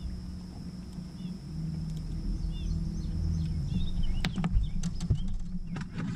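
Small birds chirping now and then over a low steady rumble. From about four seconds in come a few sharp knocks and clicks, the loudest of them just after, as the fish is handled on the boat deck.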